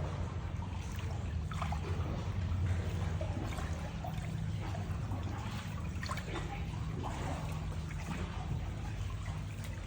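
Water trickling and lapping, with scattered small splashes and drips over a steady low hum.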